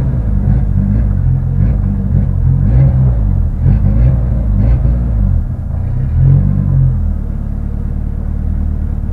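Rally car's engine heard inside the cabin, revved up and down again and again, then settling to a steady idle about seven seconds in.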